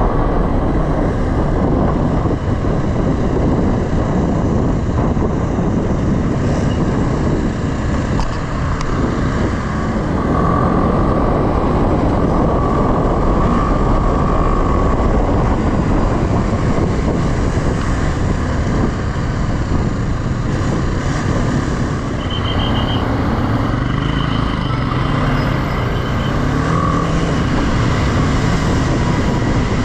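Motorcycle on the move: steady engine and road noise throughout. About three-quarters of the way through comes a short, high, pulsing beep.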